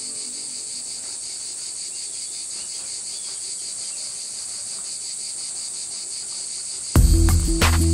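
Crickets chirring steadily in a high-pitched chorus. Near the end, music with a heavy bass comes in loudly.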